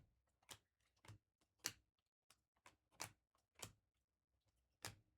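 Faint clicks of trading cards being flipped through one by one, about eight soft taps roughly half a second apart, with a pause of about a second in the second half.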